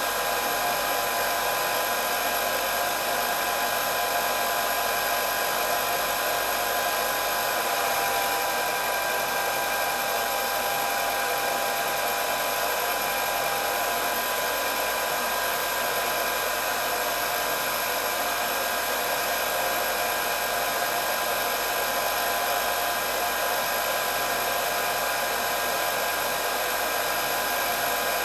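Hair dryer running steadily: an even rush of blown air under a constant high whine from its motor.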